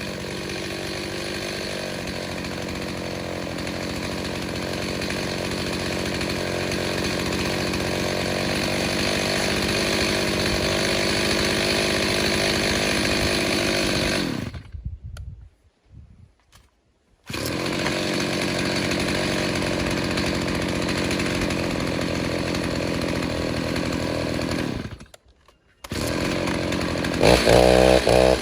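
Stihl 029 chainsaw, rebuilt with a 45 mm cylinder, running steadily under load in a cut. The sound cuts off abruptly twice for a second or two, and near the end the engine revs up and down.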